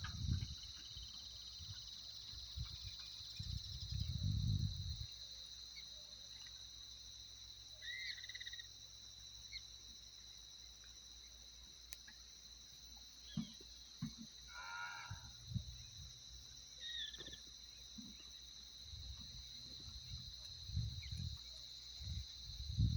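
Cattle lowing now and then, a low mooing about four seconds in and again near the end, over a steady high insect chorus of crickets, with a few short bird-like chirps in between.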